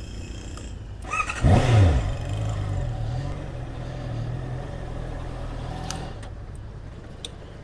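A motor vehicle's engine revs about a second in, its pitch falling quickly. It then runs steadily with a low drone that drops off about six seconds in.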